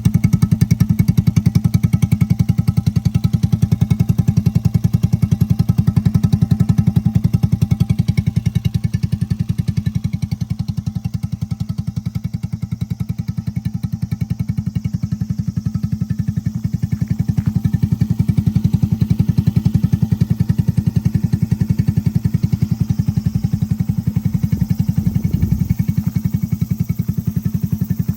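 Honda Cub single-cylinder four-stroke engine, bored up to 81cc with a Takegawa kit and fed by a Kitaco PC20 carburettor, running steadily at idle through an aftermarket muffler with a deep, even exhaust pulse.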